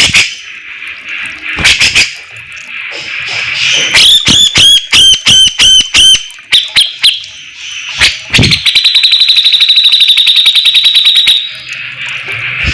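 Brown-cheeked bulbul (cucak jenggot) singing loudly: sharp whistled notes and a quick run of bending whistles, then a rapid, even rattling trill of about two and a half seconds in the second half, over a steady high hiss.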